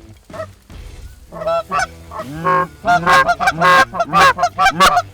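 Canada goose honks and clucks. A few calls come first, then a rapid, loud run of honks from about a second and a half in, as geese come in to the decoys.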